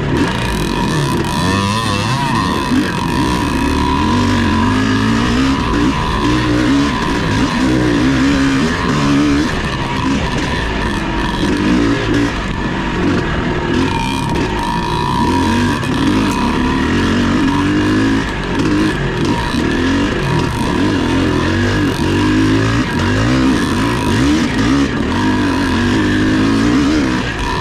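Vintage off-road motorcycle engine running hard during a cross-country race, its pitch rising and falling continuously as the throttle is worked on and off.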